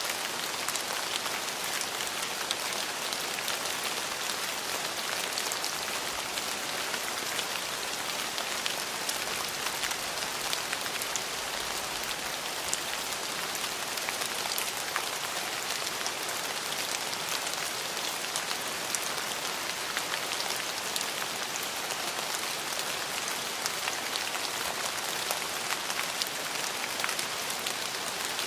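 Steady rain falling on a hard surface: an even hiss with many separate drop ticks scattered through it.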